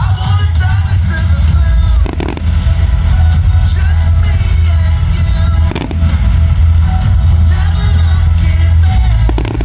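Music from loudspeakers with a heavy bass line, accompanying a fireworks show, with firework shells bursting sharply three times.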